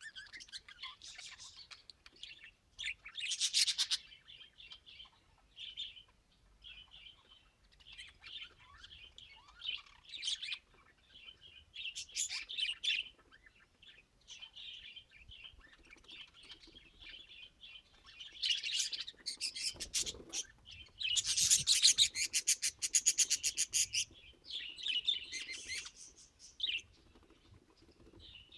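Pet budgerigars chirping and chattering in irregular bursts. About three-quarters of the way through there is a louder, fast rattling run of rapid repeated notes lasting a few seconds.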